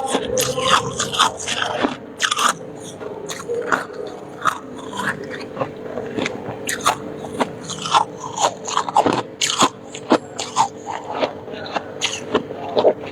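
Close-up biting and chewing of crisp freezer frost (shaved ice): a rapid, irregular run of crunches, over a faint steady hum.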